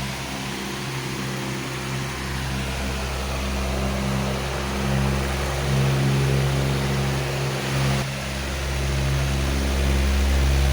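Powerful electric fan running steadily: rushing air with a low hum, the deep part of the hum swelling and fading every few seconds.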